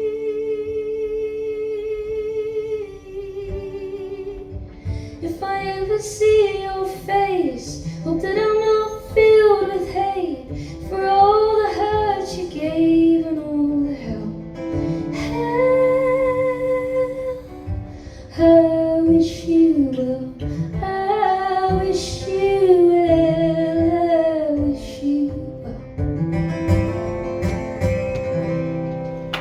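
Live music: a woman singing a slow melody with long, wavering held notes over guitar accompaniment, the closing stretch of a song.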